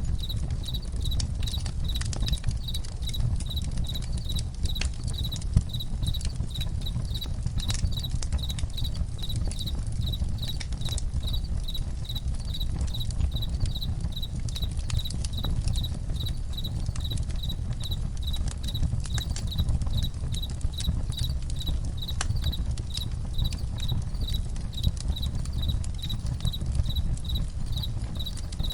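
Campfire crackling, with irregular sharp pops over a low rumble, and crickets chirping in a steady, even rhythm.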